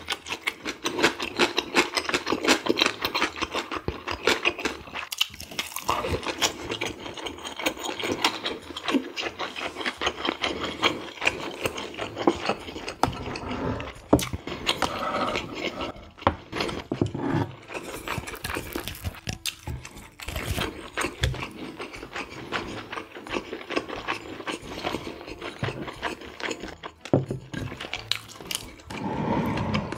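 Close-miked eating sounds: a person chewing, with a dense run of small crackly mouth clicks and chopsticks picking at food on plates.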